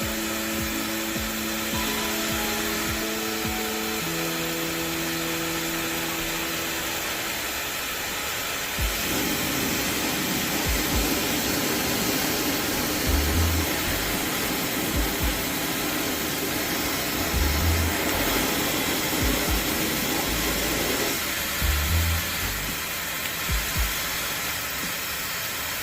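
Slopehill high-speed hair dryer running with a steady rush of air, under background music.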